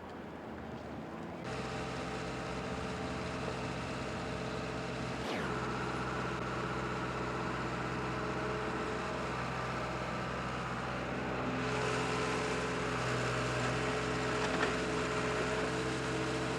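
Steady engine noise with a low, even hum, starting about a second and a half in and shifting slightly in tone around the middle.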